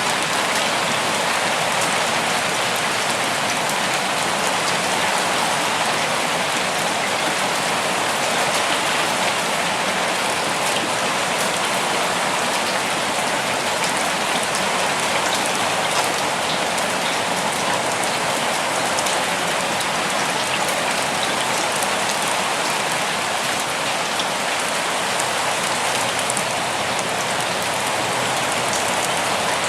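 Steady rain falling on forest foliage and ground, a dense even patter of drops with fine individual drop ticks.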